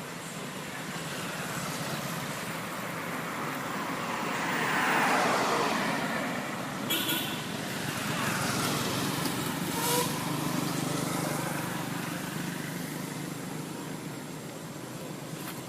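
Road traffic: motor vehicles passing by. The sound swells to its loudest about five seconds in, falling in pitch as a vehicle goes past, and a second vehicle passes a few seconds later. A couple of short clicks sound in between.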